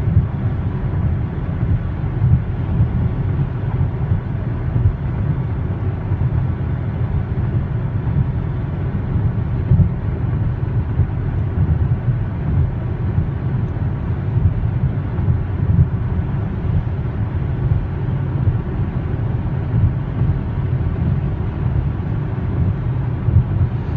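Steady low road and wind noise inside the cabin of a 2020 Hyundai Palisade cruising at highway speed (about 100 km/h), mostly a low rumble. The owner judges it really quiet, with no vibration, though it is fairly windy outside.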